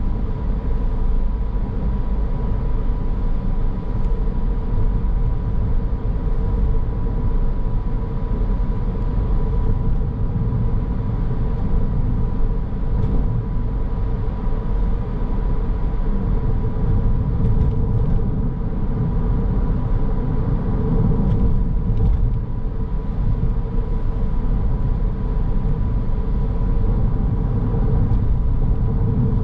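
Car driving along, heard from inside: a steady low rumble of road and engine noise, with a faint steady high tone running under it.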